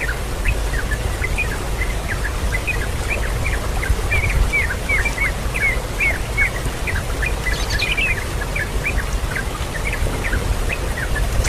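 Birds chirping: a steady run of short, quick chirps, several a second, over a constant low rumble.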